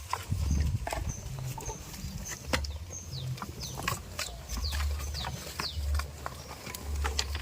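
Farmyard animal sounds: short, high chirps repeated every fraction of a second, mixed with scattered clicks and intermittent low rumbling.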